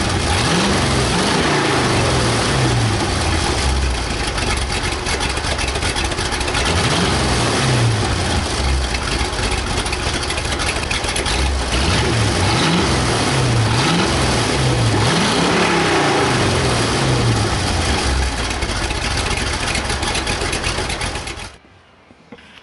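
350 small-block Chevy V8 in a Toyota Tacoma, exhaust running through its mufflers, idling and being revved again and again, its pitch rising and falling with each blip. The engine sound stops abruptly near the end.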